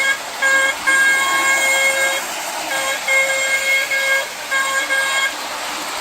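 Battery-powered horn of a Lionel 2032 Erie FA-1 model diesel locomotive sounding a series of about five blasts, short and long, the longest a little over a second. It is ear-piercingly loud.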